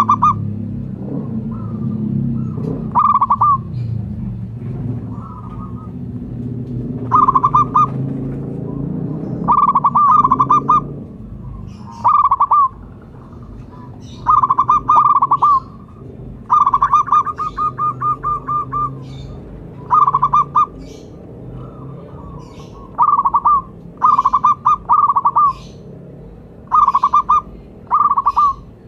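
Zebra dove (perkutut) cooing: short phrases of quick staccato notes repeated every second or two, with one longer run of rapid notes about two-thirds of the way through. A low background rumble sits under the calls in the first third.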